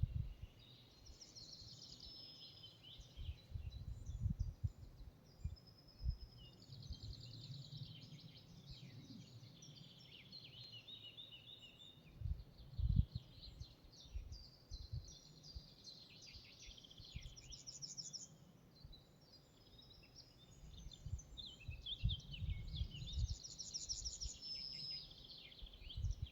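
Several songbirds singing in a forest, one warbling phrase after another. Irregular low rumbles come and go underneath, the strongest about halfway through.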